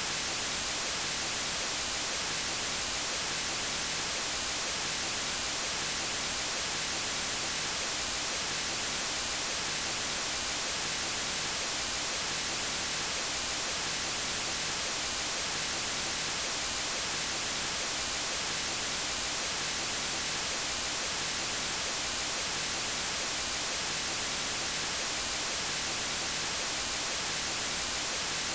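Steady synthetic white noise, an even hiss across all pitches, brightest in the highs.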